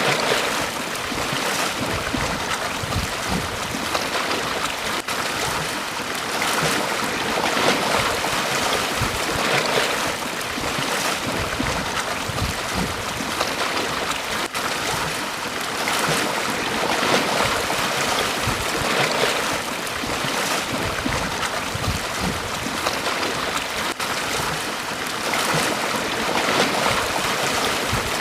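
Ocean waves breaking and washing on a beach: a continuous surf wash that swells louder every few seconds as each wave comes in.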